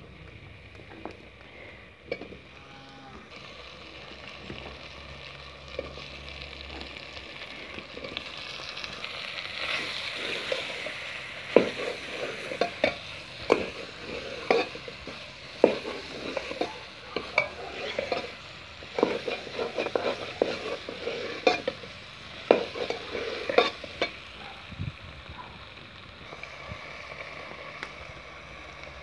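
Potatoes and peas frying in an aluminium pot with a steady sizzle that grows louder about a quarter of the way in. A metal spoon stirs and scrapes against the pot in a long run of sharp clinks from about a third of the way in until a few seconds before the end.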